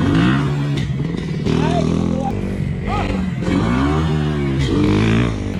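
Dirt bike engine revving up and dropping back several times, with voices around it.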